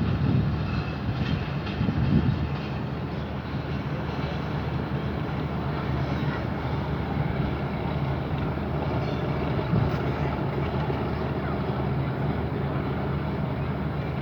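Pakistan Railways passenger train on the move: a steady low engine hum over rolling rail noise, with a couple of low thumps in the first two seconds.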